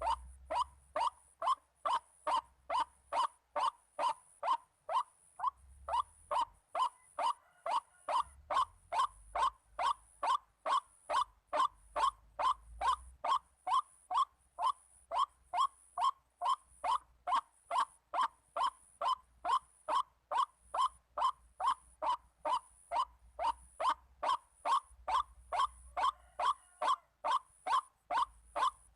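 White-breasted waterhen (ruak-ruak) call, a short note repeated steadily about twice a second without a break.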